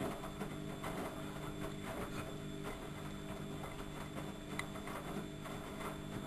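Studio WM26AAA washing machine running: a steady motor hum with irregular clicks and knocks from the turning drum.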